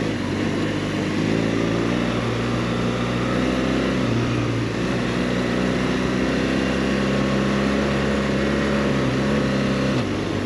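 BMW R 1200 GS boxer-twin engine running under way, its note rising and falling with the throttle, over a steady rush of wind and tyre noise.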